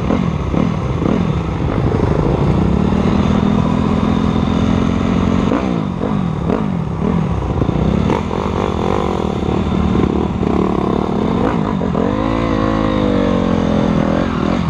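Motocross dirt bike engine running under changing throttle. Its pitch drops several times in the first couple of seconds, holds steady for a few seconds, then rises and falls again near the end.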